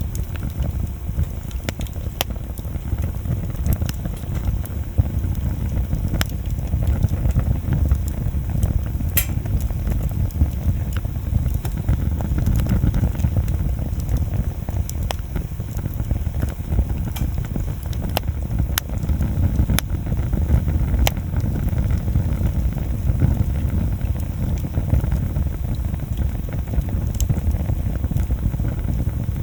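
Wood bonfire burning: scattered sharp crackles and pops of the burning wood over a steady low rumble, with one louder pop about nine seconds in.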